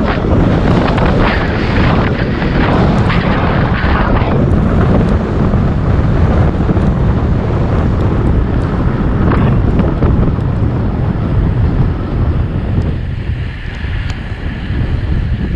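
Wind buffeting the microphone as a cyclist rides along, a loud steady rumble that eases slightly near the end.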